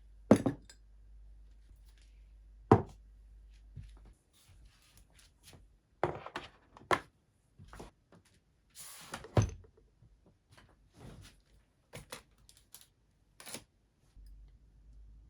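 Objects being handled and set down on a desk: a few sharp knocks and thuds, the loudest about 9 seconds in, with lighter clicks and a brief paper-like rustle between them.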